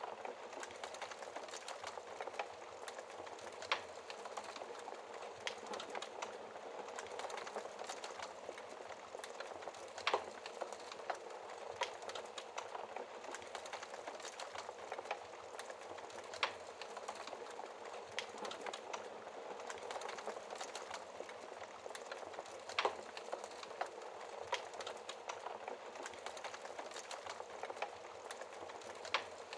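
Wood fire crackling in a fireplace: a steady dense crackle with sharper pops every few seconds.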